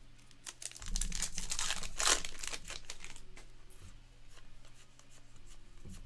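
A foil trading-card pack wrapper being torn open and crinkled, loudest for about two seconds near the start, then lighter rustling and small crinkles.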